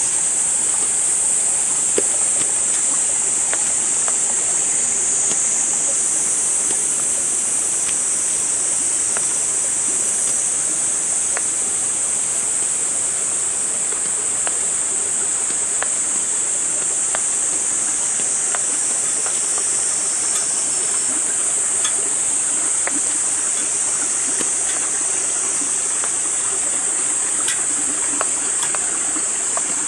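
Waterfall and stream water rushing steadily, with insects droning in a constant high-pitched band above it.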